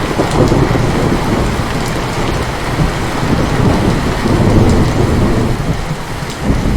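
Heavy rain with a long roll of thunder rumbling throughout. The thunder eases briefly near the end, then swells again.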